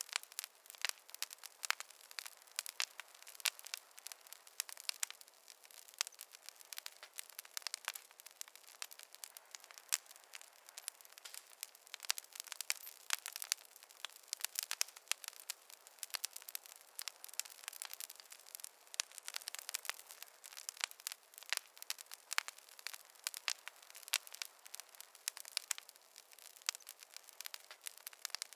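Campfire crackling: a continuous, irregular stream of sharp snaps and pops over a soft hiss.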